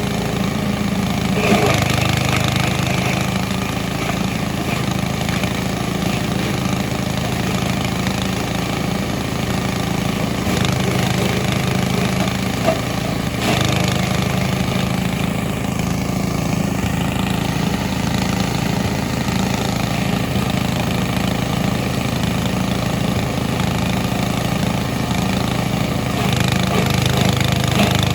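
Grass chopper machine's engine running steadily, with a couple of brief knocks.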